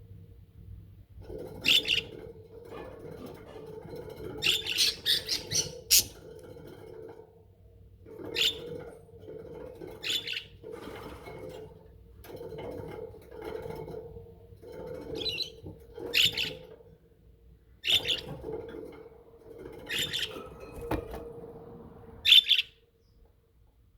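Pet budgerigars chirping and chattering: sharp high chirps come every couple of seconds over a softer, continuous warble.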